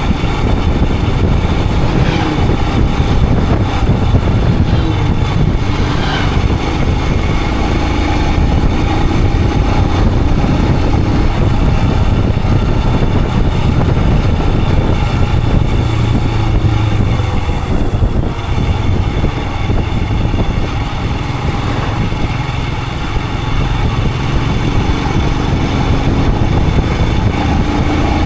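Royal Enfield Himalayan 411's single-cylinder engine running steadily under way, with a heavy low rumble of wind and road noise.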